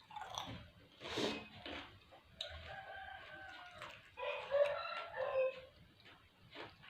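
Rooster crowing: two long calls in the middle, the second louder.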